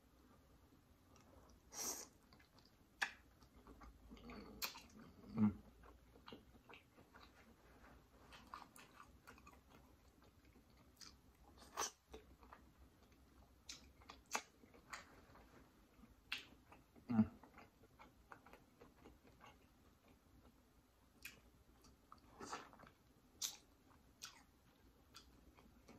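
A person chewing seafood close to the microphone: irregular mouth sounds with scattered sharp clicks and smacks.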